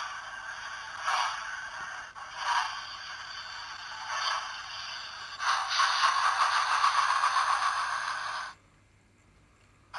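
Hornby TTS sound decoder in a model Flying Scotsman steam locomotive playing slow exhaust chuffs through its small speaker, about one every second and a half. About five seconds in it switches to a fast, continuous chuffing that represents wheel slip, which cuts off suddenly near the end.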